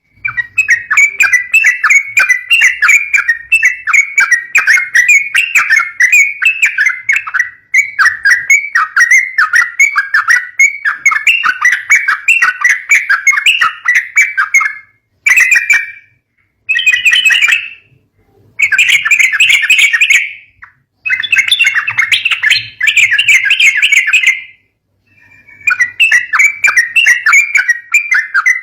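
Yellow-vented bulbuls (trucukan) giving rapid, excited chattering calls, near-continuous at first and then in bursts of a second or a few seconds broken by short silences in the second half, the kind of calling used to lure young bulbuls.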